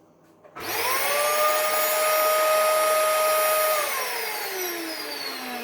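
Dyson DC39 barrel vacuum cleaner switched on about half a second in: its motor spins up to a steady whine over a rush of air. About four seconds in it is switched off, and the whine falls away as the motor winds down. The noise is not the machine's usual sound, which the owner puts down to something caught inside the motor, also robbing it of suction.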